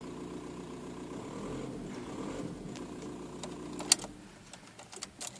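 A steady hum that stops about four seconds in, then a sharp click and several lighter clicks: the moments just before a VW Bora 1.9 TDI diesel is cranked for a cold start at −15 °C.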